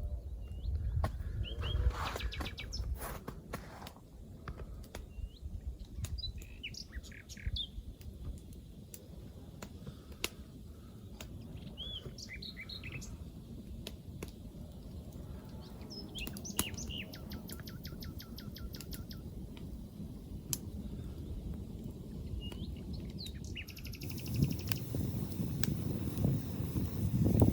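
Small songbirds chirping and calling, with short rising and falling chirps and one rapid trill of repeated notes about two thirds of the way through, over a low steady outdoor background with scattered sharp clicks.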